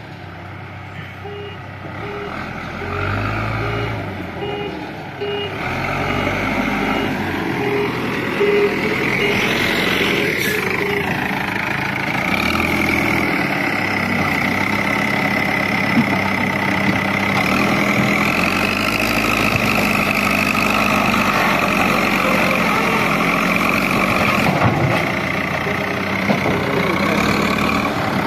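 JCB 3DX backhoe loader's diesel engine running under work, its reversing alarm beeping about twice a second during the first few seconds and again briefly near ten seconds. About ten seconds in, the pitch rises and falls once; after that the engine runs steadily and a little louder.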